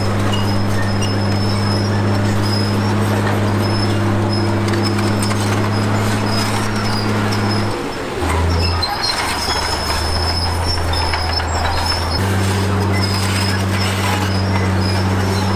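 Heavy diesel earthmoving machinery running steadily, with a thin high whine over the engine. About eight seconds in, the engine drops to a lower pitch for some four seconds, then comes back up to its earlier steady note.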